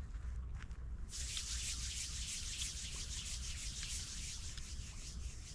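Steady scratchy rubbing noise, such as clothing brushing against the microphone, starting about a second in.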